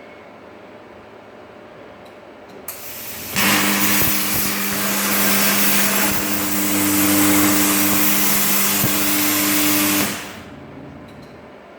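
An 80 A Migatronic air plasma cutter cutting 12 mm steel. A faint hiss starts near the three-second mark, then the cutting arc runs for about seven seconds as a loud, steady hiss with a steady hum under it, and cuts off sharply.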